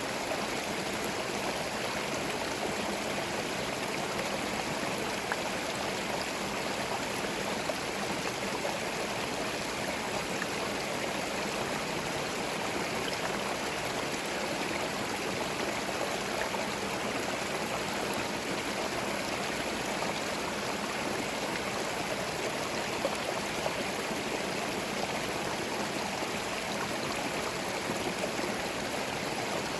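Small forest stream flowing over stones: a steady, unbroken babble of running water.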